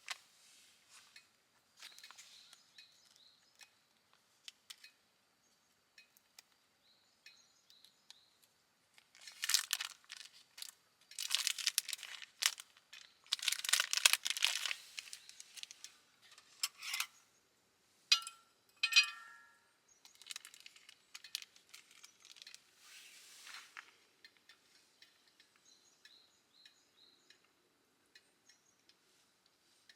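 Irregular crinkling and rustling handling noises in several bursts, loudest through the middle, with a couple of short squeaks.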